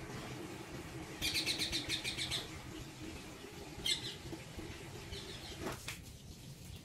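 A small bird calling: a rapid chattering trill of about ten high notes lasting about a second, starting about a second in, then one sharp chirp near the middle and a few fainter chirps after.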